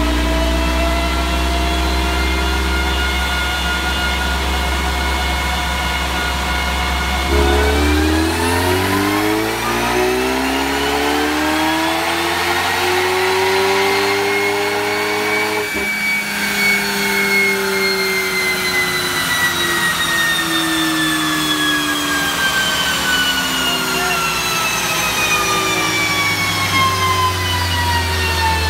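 Roush-tuned 2016 Ford Mustang EcoBoost's turbocharged 2.3-litre four-cylinder on a chassis dyno: steady idle, then a dyno pull in which the engine and rollers climb in pitch for about eight seconds. The throttle closes sharply about halfway, followed by a long falling whine as the engine and rollers wind down, settling back near idle at the end.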